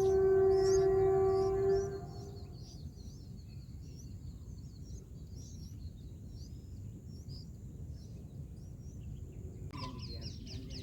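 A long, steady horn tone with a single held pitch lasts through the first two seconds, over light high bird chirps and a steady high insect hum. Near the end a burst of rapid, high chirping starts.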